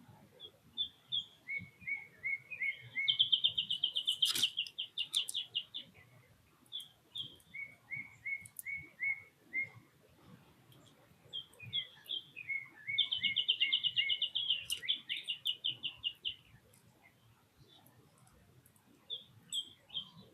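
A songbird singing two phrases, each a run of short whistled notes ending in a rapid trill of about three seconds; a few more short notes come near the end. A sharp click sounds during the first trill.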